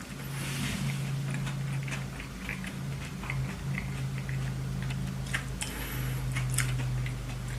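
Close-up eating of a burger: biting and chewing, with scattered short mouth clicks and two longer bites, over a steady low hum.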